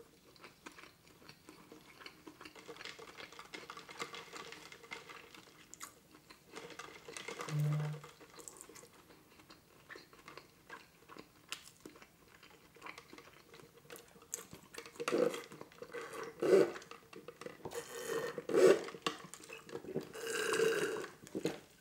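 Close-miked mouth sounds of a man chewing, with soft wet clicks. In the last few seconds come louder sips and slurps of a soft drink through a straw.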